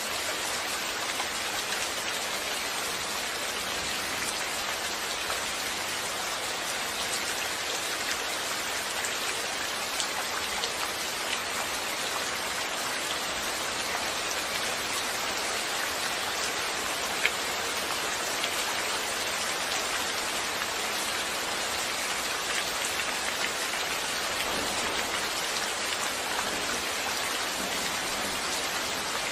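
Steady rain falling on a surface, an even hiss with scattered individual drop ticks, one sharper tick about seventeen seconds in.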